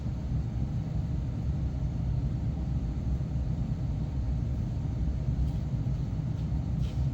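Steady low rumble, the constant drone of boiler-room machinery, with a couple of faint clicks near the end.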